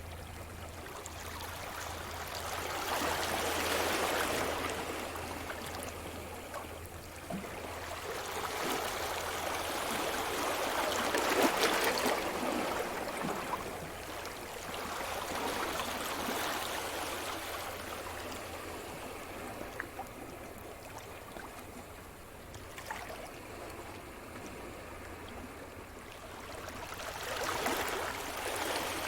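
Sea surf: waves washing in and drawing back, the rush of water swelling and fading four times.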